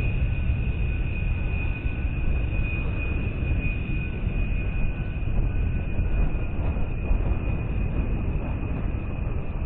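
Steady low rumble with a constant high whine over it, the continuous noise of a running vehicle or engine.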